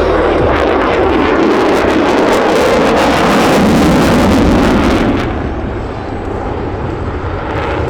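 F-22 Raptor's twin Pratt & Whitney F119 turbofans at high power during a slow, high-angle pass, a loud crackling jet roar. About five seconds in, the crackle and the hiss at the top fall away and the roar eases to a duller rumble as the jet moves off.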